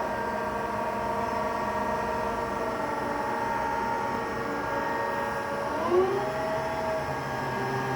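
Harrison Alpha 400 CNC lathe running under power, a steady whine of several tones from the spindle drive; about six seconds in the pitch rises to a new steady level as the spindle speed changes.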